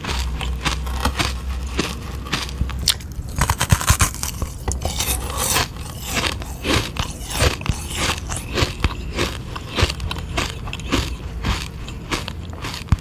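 Close-miked biting and crunching into a hard frozen sugar-water ice lolly, then chewing the ice fragments: a dense run of irregular sharp crunches and scrapes.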